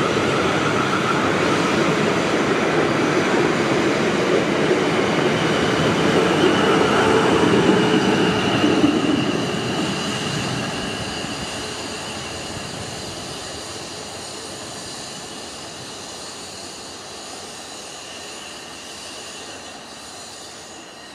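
Electric multiple-unit train passing, loud for about nine seconds and then fading away steadily, with a thin high whine as it recedes.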